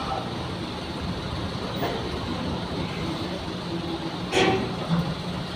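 Steady low mechanical hum and rumble of a docked car ferry's machinery, with a short knock about four and a half seconds in.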